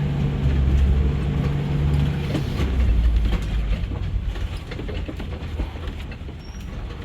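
Safari truck running over a rough track, with a steady low engine hum and a scatter of rattles and knocks from the truck. The engine's hum drops away about two and a half seconds in, leaving a lower rumble and the rattling.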